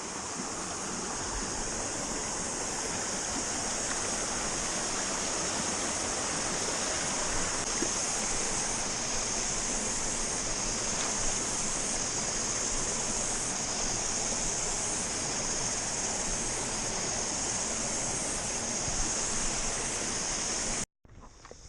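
Small stream running over rocks, a steady rush of water, with a high cicada chorus over it. It cuts off abruptly near the end.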